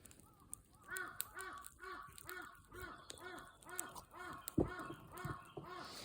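A crow cawing in a long, even series of about a dozen calls, roughly two a second, starting about a second in. Faint crackles of a small wood fire and one dull thump come along with it.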